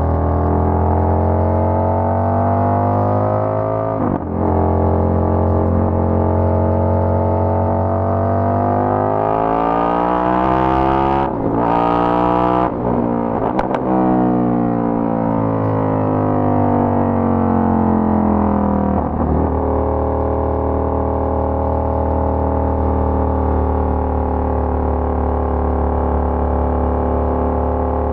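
Indian FTR 1200's V-twin engine through a Toce aftermarket exhaust while riding. The engine note holds steady, with a brief break about four seconds in. It climbs in pitch towards the middle, breaks off for shifts, and falls away as the bike slows, then settles to a steady lower note for the last third.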